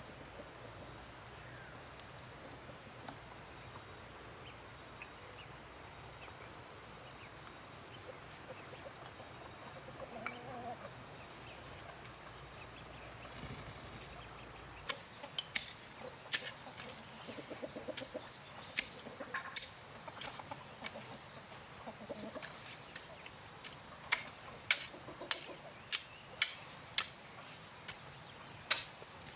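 Chickens clucking softly over a steady outdoor background. From about halfway in, a run of sharp clicks or taps, one or two a second, comes in and is louder than the clucking.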